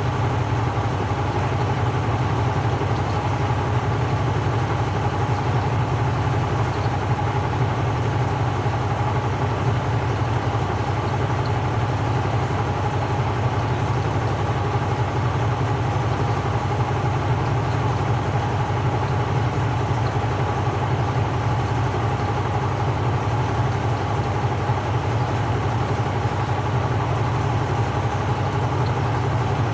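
Samsung 6.5 kg top-loading washing machine spinning: a loud, steady hum of the motor and drum with a constant higher whine, unbroken throughout.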